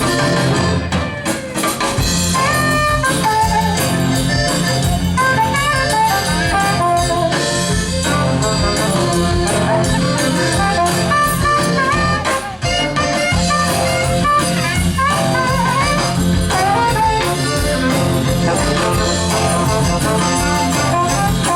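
Instrumental break in a jazzy song: horns play melodic lines over a steady bass line and drums.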